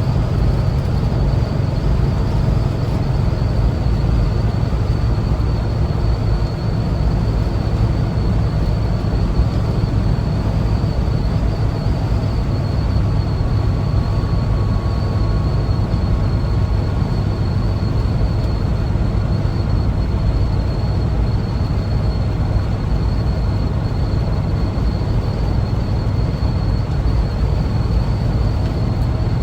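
Air-cooled Type 4 flat-four engine of a 1974 Volkswagen Westfalia bus running steadily while cruising, with road and wind noise and a faint steady high whine over it.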